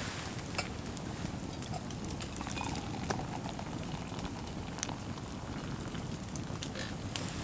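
Wood campfire crackling with scattered sharp pops, over a steady patter of light rain.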